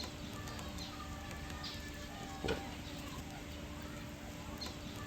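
Scattered chirps and twitters of small birds in an aviary, over a steady low hum, with one short knock about two and a half seconds in.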